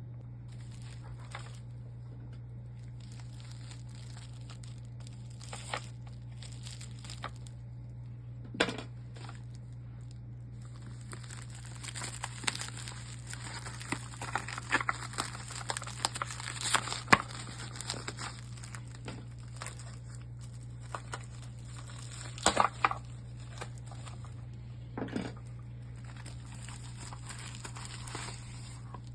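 Plastic packaging crinkling and rustling as the boxed engine parts are handled, with scattered clicks and knocks, busiest in the middle and again briefly later on. A steady low hum runs underneath.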